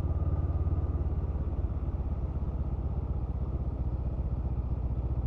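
Honda CMX500 Rebel's parallel-twin engine running steadily while the bike is ridden, with an even, rapid firing pulse.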